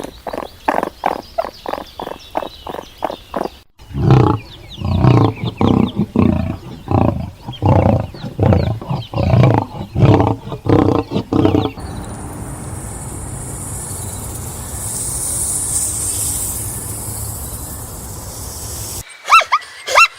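Animal calls: first a quick run of short repeated calls, then louder, slower calls about twice a second for several seconds, then a steady hiss of background noise without calls until new short calls start near the end.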